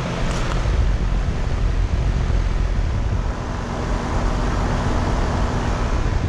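2013 GMC 5-ton heat pump running just after start-up in heat mode: its Copeland scroll compressor gives a steady hum over a low rumble, a little louder from about a second in.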